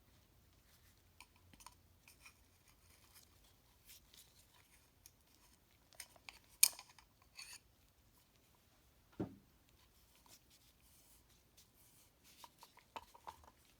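Quiet handling of a replacement oil filter cartridge and its rubber gaskets: scattered rubbing and small clicks, with one sharper click about six and a half seconds in and a dull knock a few seconds later.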